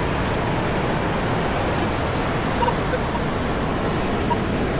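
Ocean surf washing up the beach, a steady rushing noise.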